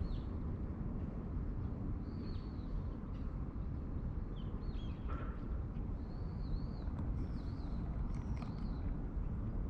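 Small birds chirping now and then, short high calls that slide up and down in pitch, over a steady low background rumble.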